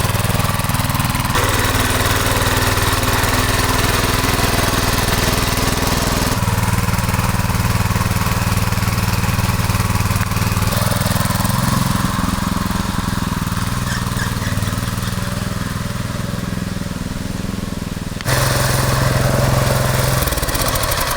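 Motoblock (walk-behind tractor) engine running steadily, with the sound jumping abruptly a few times and easing off somewhat past the middle.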